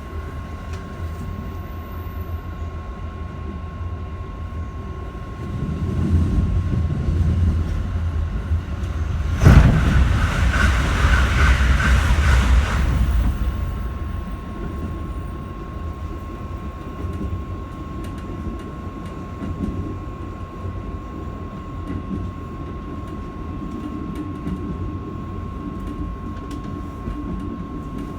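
Keikyu 1000 series electric train running at speed, heard from inside the car: steady wheel and track rumble with a steady whine. About ten seconds in, a sudden loud rush of noise lasts about four seconds, then the steady running sound returns.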